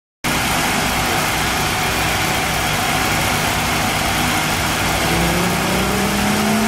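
2001 Nissan Maxima SE's 3.0-litre V6, fitted with an Injen cold air intake, running on a chassis dynamometer. It cuts in loud and steady, and about five seconds in its pitch starts to climb as the engine begins revving up for a dyno pull.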